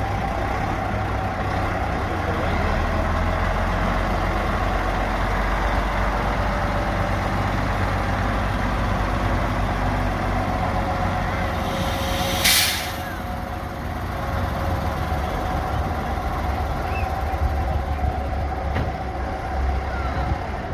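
Heavy truck and tractor engines running steadily, with a short sharp hiss of air-brake air about halfway through.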